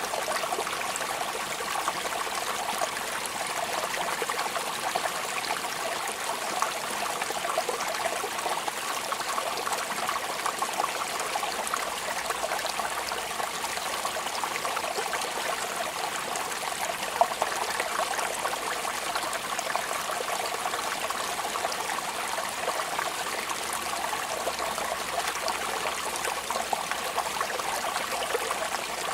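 Steady rain falling, an even hiss made of many small drop impacts, with a trickle of running water.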